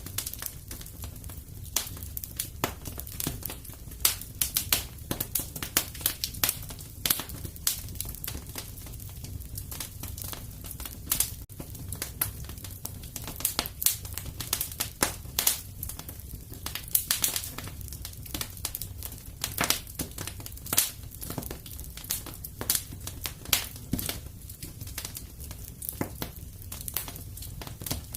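Wood fire crackling in a fireplace: frequent sharp, irregular pops and snaps over a soft low rumble of the flames.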